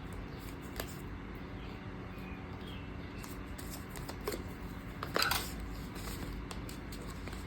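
Quiet handling of paper planner supplies: scattered light taps and rustles, with a short, louder rustle about five seconds in.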